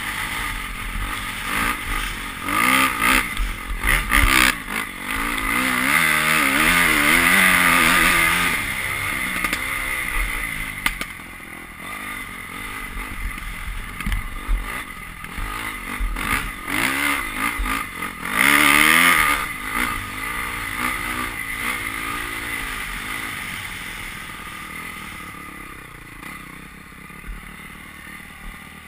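Honda CRF250 motocross bike's four-stroke single-cylinder engine, revving up and down repeatedly as it is ridden. It fades over the last ten seconds or so.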